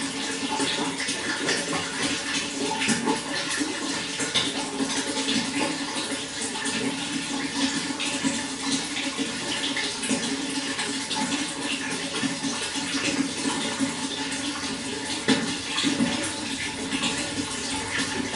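Running water flowing steadily, with continuous splashing and trickling.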